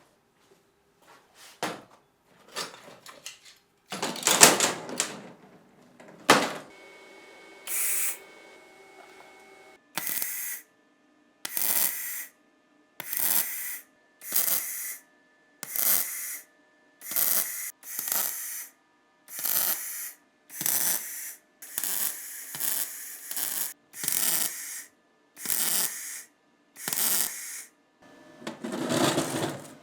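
A few irregular scrapes and knocks, then steady, even scraping strokes by hand, about one a second.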